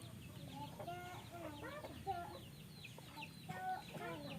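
Many short animal calls, rising and falling in pitch and coming every fraction of a second, with a constant patter of quick high falling chirps over them.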